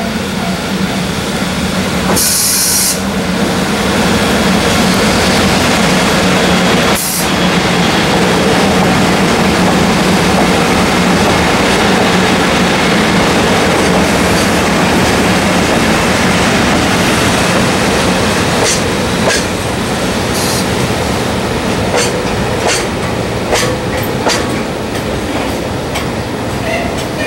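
Double-headed EF64 electric locomotives hauling a long train of loaded oil tank wagons roll past close by as the train arrives at a station, with steady rolling noise and a low drone. There is a brief hiss about two seconds in and a sharp clunk about seven seconds in. Wheels click over rail joints through the last third as the tank wagons pass.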